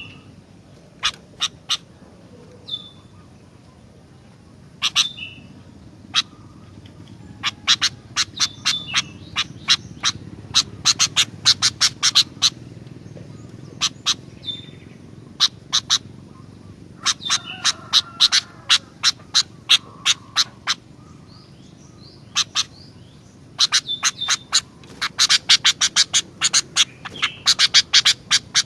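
Sooty-headed bulbul (kutilang) calling in full voice: quick runs of sharp, harsh chattering notes broken by short high chirps, busiest in the second half.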